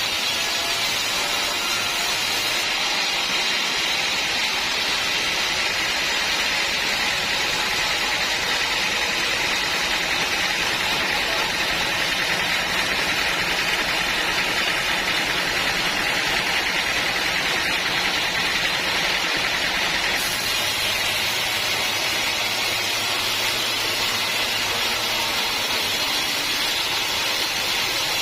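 Sawmill saw cutting through old teak wood, a steady high-pitched running noise without breaks.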